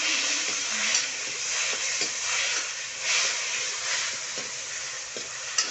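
Freshly added chopped tomatoes sizzling in hot oil in a kadhai, stirred with a spatula: a steady frying hiss that swells with each stroke, with a few light knocks of the spatula on the pan.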